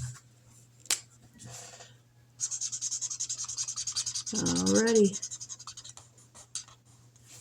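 Felt-tip marker scribbling fast back and forth on paper, colouring in a square, in quick even strokes for a few seconds in the middle.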